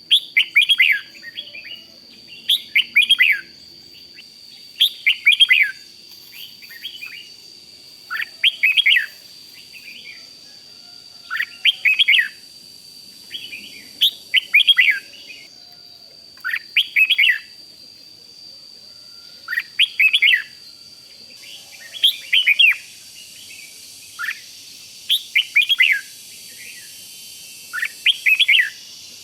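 Red-whiskered bulbul singing short, bright warbled phrases, repeated every two to three seconds. A faint steady high whine runs underneath.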